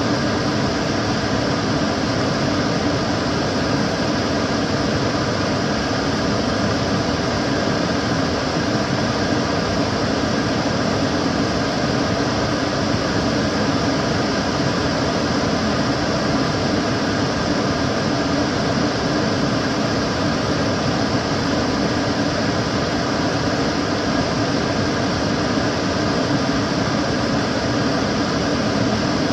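Kitchen cooker hood extractor fan running steadily: an even whooshing rush of air with a low hum and faint steady tones.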